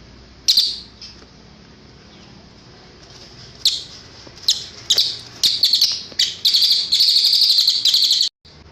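Cililin song bird singing loud, high, sharp calls: one call, a pause, then several spaced calls that quicken into a rapid, continuous trill, which cuts off abruptly near the end.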